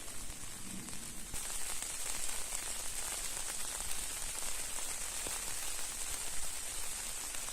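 Steady rain falling: an even hiss with scattered faint drop ticks, growing a little stronger about a second in.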